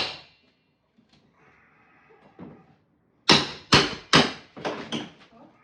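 Hammer blows on a wooden fireplace surround being knocked loose: three hard strikes a little under half a second apart about three seconds in, then several lighter knocks.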